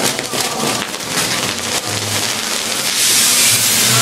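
Fireworks on a castillo tower crackling and hissing as they spray sparks. About three seconds in, a louder, steady rushing hiss takes over as a bigger piece flares.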